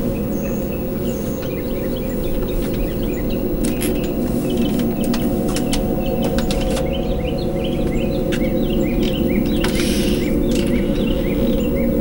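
Small birds chirping over and over above a steady low rumble, with a few scattered clicks.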